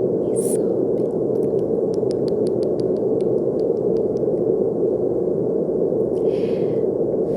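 Steady brown noise, an even low rushing hiss. A run of faint quick clicks comes about one to four seconds in, and a brief soft hiss about six seconds in.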